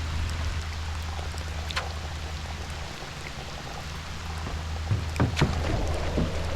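Water lapping and trickling around a kayak, with a few short splashes about five seconds in.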